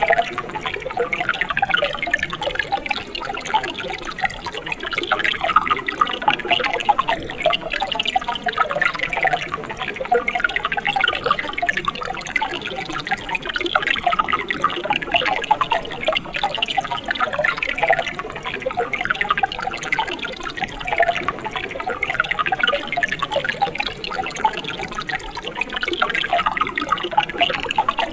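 Mountain stream water running and splashing over rocks, a steady bubbling with many small splashes.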